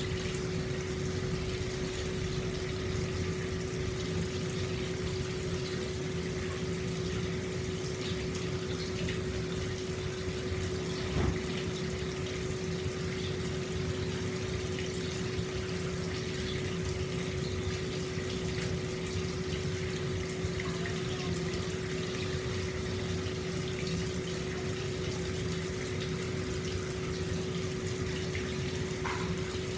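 Hot spring water pouring steadily from the spout into an open-air stone bath, a constant splashing rush with a steady low hum beneath it. A single light knock about eleven seconds in.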